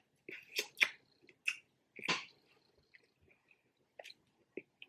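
Snow crab legs being eaten: a series of short, sharp clicks and wet snaps, the loudest about two seconds in, with a few fainter ones near the end.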